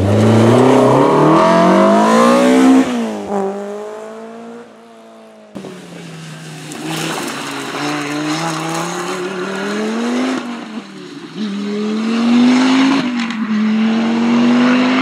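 Rally cars at full throttle on a stage. The first engine revs hard and rises in pitch, then drops and fades away. About five seconds in, a second rally car's engine starts abruptly and pulls hard, its pitch rising and then falling back twice as it shifts gear.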